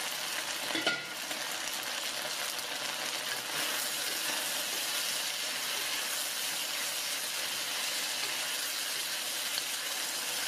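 Chicken and vegetable stir-fry sizzling in an electric wok's non-stick pan, a steady hiss, while a wooden spatula stirs and turns it. There is a short knock about a second in.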